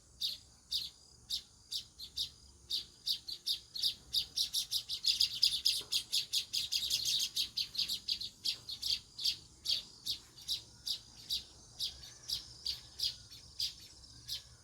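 House sparrows chirping: a run of short, high chirps, two or three a second, that thicken about five seconds in into a fast overlapping chatter of several birds, then ease back to single chirps.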